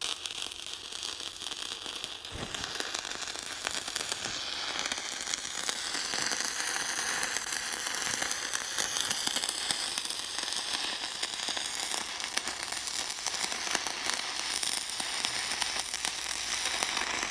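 Stick (MMA) welding arc crackling and sizzling steadily as a rod burns down, running a bead on a steel bucket leading edge. The arc starts abruptly and holds without a break.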